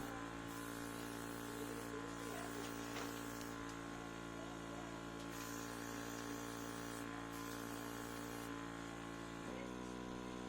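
Steady electrical buzz with many overtones; its pitch pattern shifts abruptly near the end.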